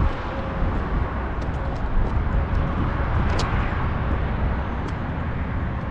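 Steady low rumbling noise, with a single sharp click about three and a half seconds in.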